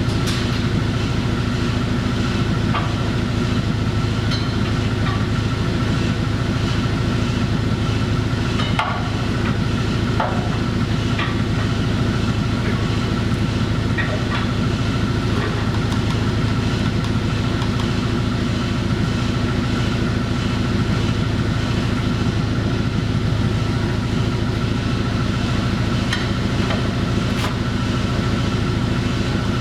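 Forklift engine running steadily, with a few short metal clinks and knocks over it.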